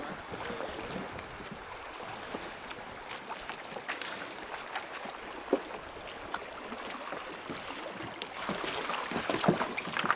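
Canoe paddling in river water: paddle splashes and drips with small knocks against the hull, busier and louder near the end as the canoe comes in to land.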